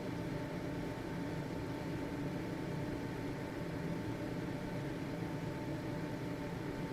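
Household ventilation fan running steadily: a constant whooshing hum with a faint steady tone from the motor.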